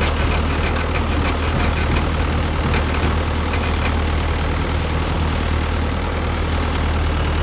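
Diesel engine idling steadily with a low, even drone.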